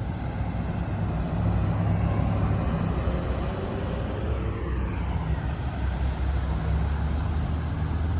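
A car engine running at low speed with a steady low rumble; its pitch shifts a little a few seconds in.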